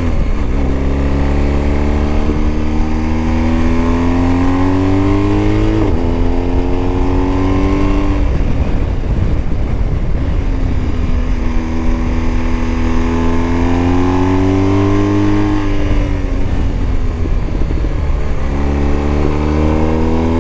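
BMW motorcycle engine pulling hard in Dynamic Pro riding mode. Its pitch rises through a gear change about six seconds in, drops as the throttle eases off around eight seconds, and climbs again several times, over a steady low rumble.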